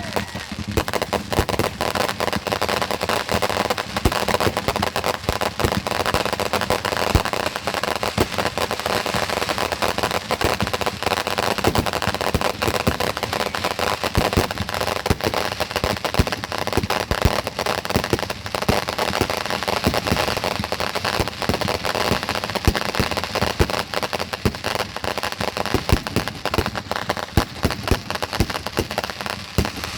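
Fireworks going off without a break: dense, rapid crackling and popping with scattered louder bangs.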